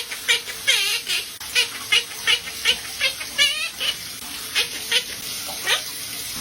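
Parrot chirping in a rapid series of short, sharp calls, about three a second, a few of them warbling, with a brief pause a little past the middle.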